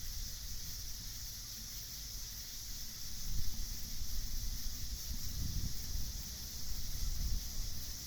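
Night ambience: a steady high chirring of a night insect chorus, with a low rumble of wind gusts swelling in from about three seconds in.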